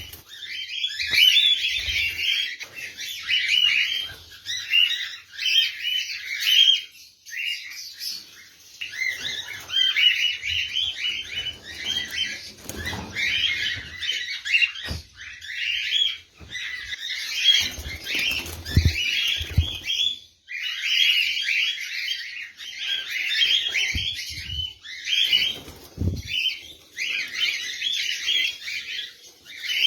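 Many caged birds chirping and chattering nonstop in a dense mass of high, overlapping calls, with a few low thumps and flutters from wings or the cage.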